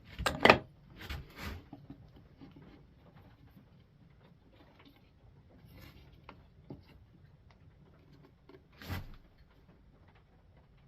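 A board and clamp being handled on the bench: a cluster of sharp wooden knocks in the first second and a half, then light taps and rubbing, and one more knock about nine seconds in.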